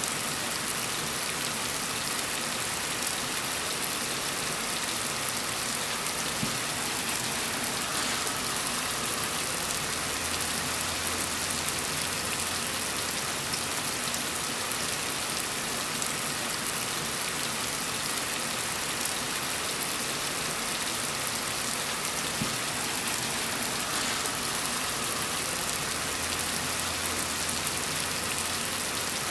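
Heavy rain falling steadily: a dense, even hiss of drops striking surfaces. A faint low hum comes in and fades out twice.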